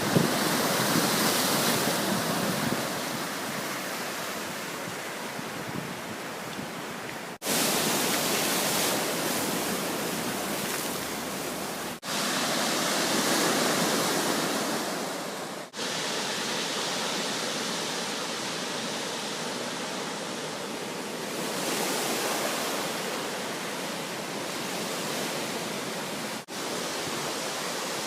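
Surf from a typhoon-roughened sea: waves breaking and washing in a continuous rush that swells and eases every few seconds, interrupted by a few brief dropouts.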